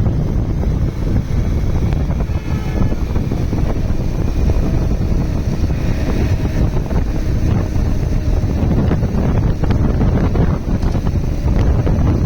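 Heavy wind buffeting the microphone of a Bajaj Pulsar 150 motorcycle at highway speed, over a steady low rumble of its engine and the road.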